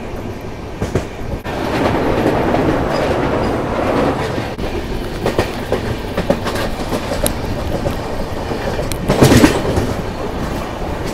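Express passenger train running at speed, heard from an open coach doorway: a steady rumble and rush of air with the clickety-clack of wheels over rail joints. A short louder surge of noise comes about nine seconds in.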